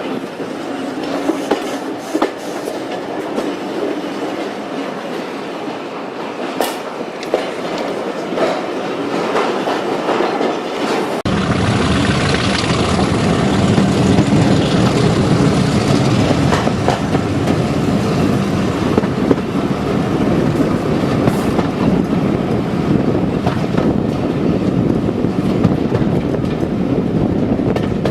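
Heritage diesel train running on the line, a steady noisy rumble with scattered clicks; about eleven seconds in the sound suddenly becomes louder and heavier.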